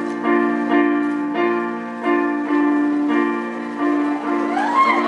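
Instrumental piano passage between sung verses of a Thai pop love song: steady repeated piano chords.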